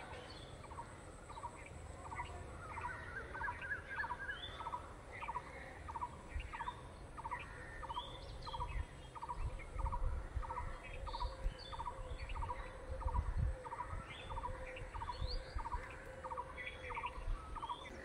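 A bird calling one short note over and over at an even pace, about one and a half notes a second, while other small birds chirp higher up.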